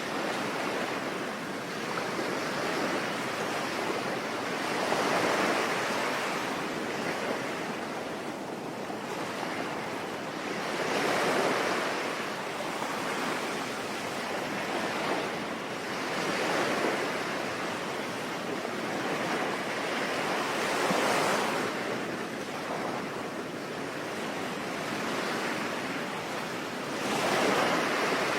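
Ocean waves breaking and washing in, five swells rising and falling about every five to six seconds, over a steady hiss of rain.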